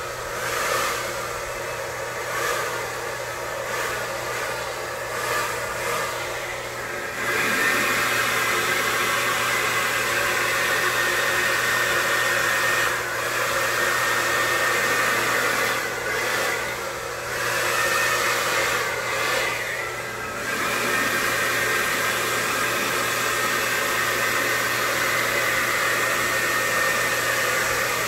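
Electric hair dryer blowing steadily, with a motor whine over the rush of air. It gets louder about a quarter of the way in and dips briefly a few times as it is moved over the wet paint.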